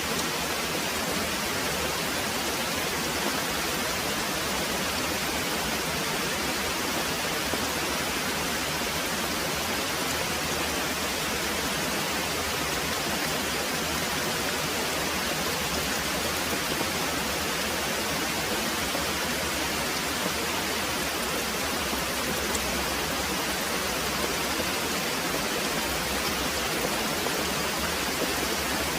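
Very heavy rain pouring steadily, a dense even hiss with no single drops or thunder standing out.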